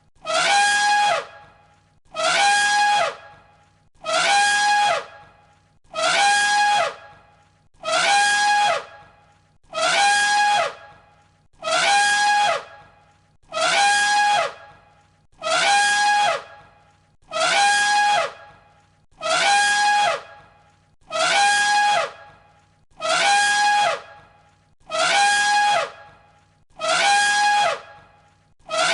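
An elephant trumpeting, the same call repeated about every two seconds, about fifteen times. Each call is a held, shrill tone that falls away in pitch at its end. The repeats are identical, as in a looped recording.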